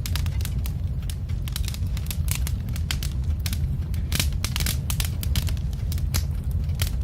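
Wood fire crackling: irregular sharp pops and snaps, several a second, over a steady low rumble of the flames.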